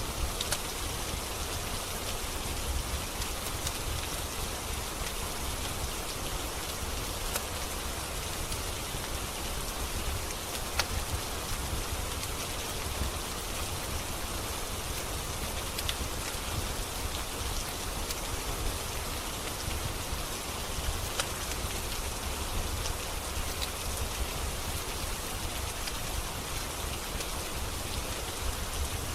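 Steady rain, with occasional sharp crackles from a wood fire in a fireplace.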